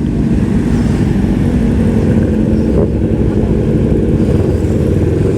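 Honda CBR500R parallel-twin engine running at a steady pace through an aftermarket exhaust, with a heavy low rumble of riding wind on the microphone.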